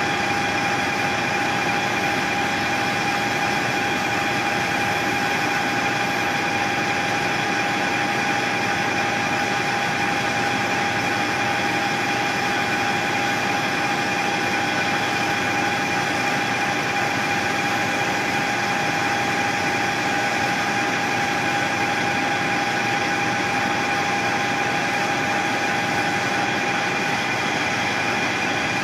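Machine tool running steadily while machining a part, a constant whine with no change in speed or load.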